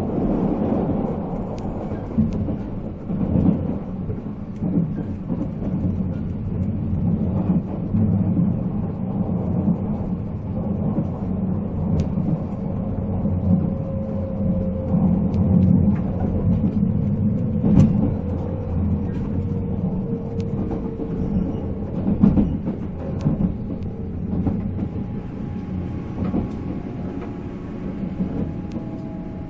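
Running noise inside a JR 485-series electric train car: a steady low rumble of wheels and MT54 traction motors, with scattered sharp rail clicks. A faint whine slowly falls in pitch through the middle.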